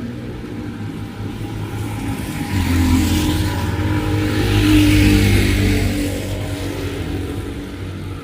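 A motor vehicle passes by on a rain-wet road. Its engine and tyre hiss swell to a peak midway and fade toward the end.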